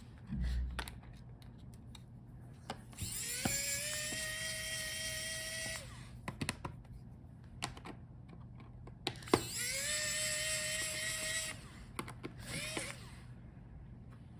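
Small electric precision screwdriver spinning up with a rising whine and then running steadily for about two seconds, twice, with light clicks of handling in between.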